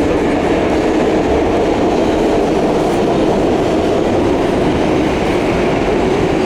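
Steady running noise of a New York City subway train heard from inside the moving car.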